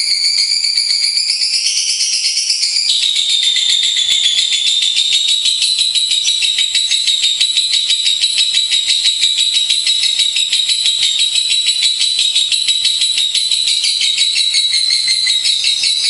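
Lovebird song: a long, unbroken, very rapid high-pitched chattering trill. The pattern shifts about three seconds in and then runs on steadily.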